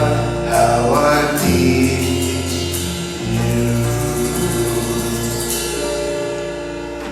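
Hymn music: voices singing over keyboard accompaniment, ending on a long held chord that fades near the end.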